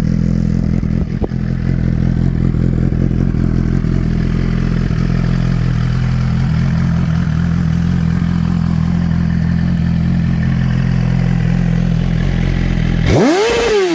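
Suzuki GSX-R1000 inline-four idling steadily through an M4 slip-on exhaust, then given one quick blip of the throttle near the end that rises and falls back to idle.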